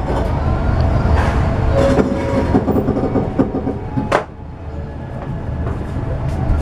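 Passenger train coach running along the track, heard from inside: a steady rumble with the wheels clattering over rail joints. A sharp click about four seconds in, after which the rumble is a little quieter.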